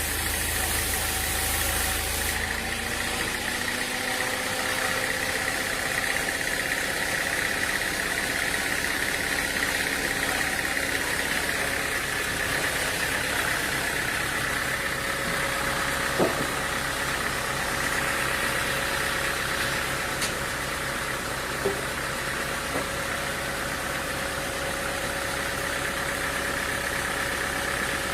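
Sawmill machinery running steadily, an engine-like drone with a steady high whine, and a few short knocks about halfway through and again later.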